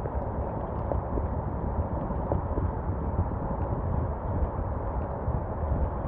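Steady rain falling, an even hiss with a low, fluctuating rumble underneath and a few faint ticks.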